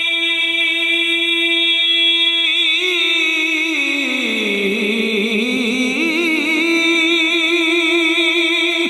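A male voice singing a naat unaccompanied, holding one long vowel steadily, then ornamenting it with a wavering run that dips lower and rises back about halfway through, before holding the note again.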